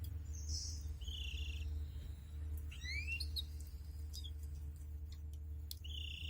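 Canaries giving a few short, spaced-out chirps and quick upward-sweeping tweets rather than a full song, over a steady low hum.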